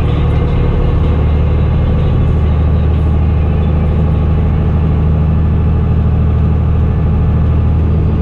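Fendt Favorit 926 Vario tractor's diesel engine running steadily with an open exhaust, a deep even note that holds at one pitch.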